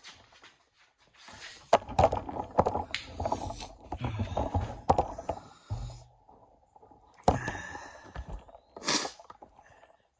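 Rustling, scraping and sharp knocks of things being handled and moved around inside a brooder box, busiest in the first half, with a single knock later and a short breathy, sniff-like burst near the end.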